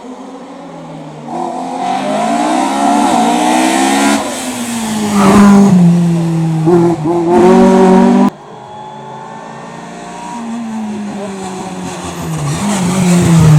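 Race car engine revving hard through the slalom course, its pitch climbing and dropping with gear changes and throttle lifts as it passes close by. The sound cuts off abruptly about eight seconds in, and a second car's engine then builds as it approaches.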